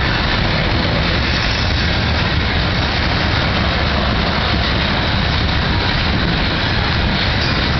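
Freight train cars, autoracks and tank cars, rolling past close by: a loud, steady rumble of steel wheels on the rails.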